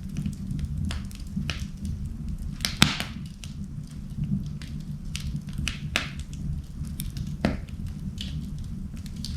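Wood fire burning in a fireplace: a steady low rumble of the flames with scattered sharp crackles and pops, the loudest about three seconds in.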